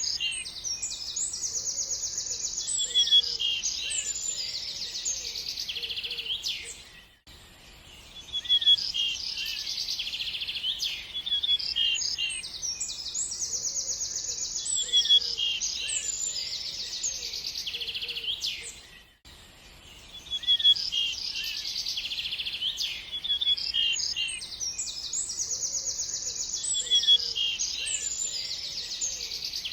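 Songbirds chirping and trilling in quick, high notes. The same stretch of birdsong repeats about every twelve seconds, with a brief dip between repeats.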